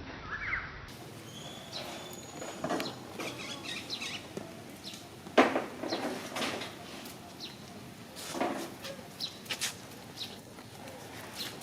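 Outdoor animal sounds: scattered short chirps and squeaks with clicks and rustling. A short rising call comes just after the start, and a sharp click about five seconds in is the loudest.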